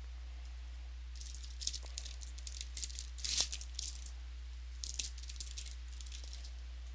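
Crinkling and rustling of trading-card packaging and cards handled by hand, in two spells: one of about three seconds starting a second in, then a shorter one around five seconds. A steady low electrical hum runs underneath.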